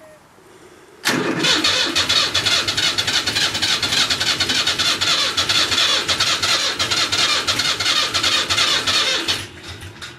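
Diesel tractor engine being cranked over by its starter in a cold start, a steady rapid churning that starts about a second in and stops about eight seconds later without the engine catching. The owner finds the fuel full of water and ice, which is keeping the engine from starting.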